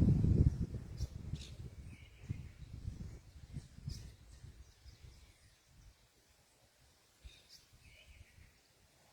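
Short, high bird chirps and calls at a feeder, a handful scattered through. A low rumble at the start fades away over the first few seconds.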